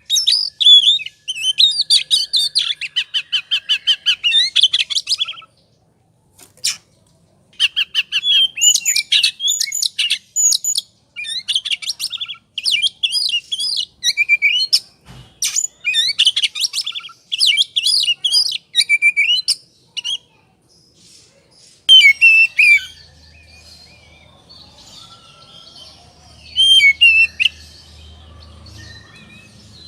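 Oriental magpie-robin (kacer) singing in an excited 'ngobra' state: rapid, varied whistles and chattering phrases in loud bursts with short pauses, turning quieter and sparser in the last third.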